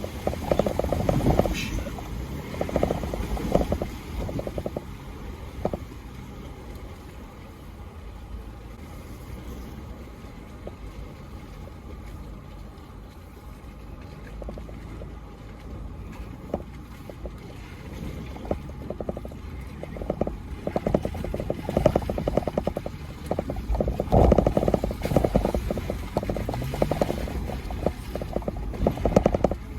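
A 4x4 crawling over rocks: a low engine rumble with irregular knocks and clunks of tyres and suspension on rock. There are louder stretches near the start and again in the last third, and a short rise in engine pitch near the end.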